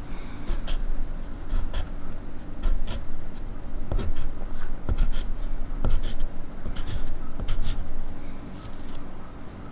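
Pencil writing on paper: a run of short, scratchy strokes at an uneven, steady working pace.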